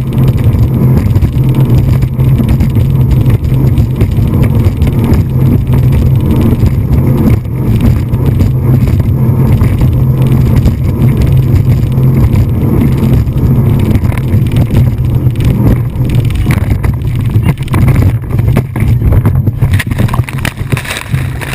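Speedboat engine running steadily at speed: a loud, continuous low drone with rushing noise over it.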